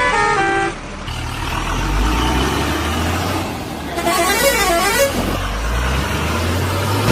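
A multi-note vehicle horn sounds and breaks off just under a second in, then a heavy truck engine runs with a low steady rumble. About four seconds in, a warbling tone wavers up and down for a second over the engine.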